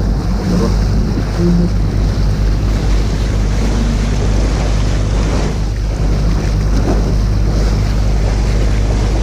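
Open canal tour boat's motor running steadily with a low hum, over water noise and wind buffeting the microphone.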